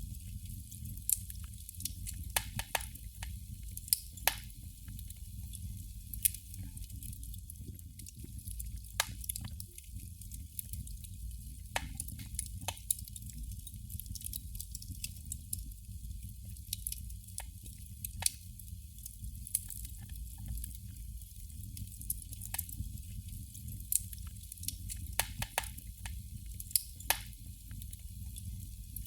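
A burning candle flame crackling: irregular small pops and snaps, a few every couple of seconds, some much sharper than others, over a steady low background rumble.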